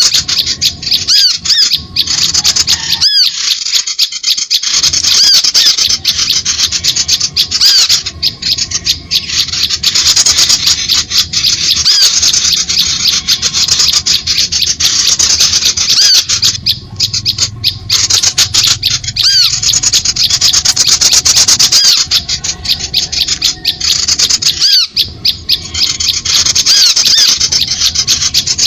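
Dense, loud chorus of small birds: rapid high chirps and twittering calls with a few brief pauses. It is a bird-lure (suara pikat) recording of small-bird calls, played to draw birds in.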